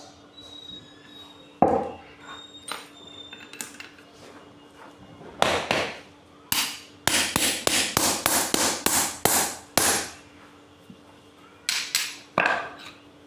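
Hammer blows on metal while the ball bearings of a 1.5 HP electric water pump are being changed: a few single strikes, then a quick run of about eight blows in three seconds, then a few more near the end.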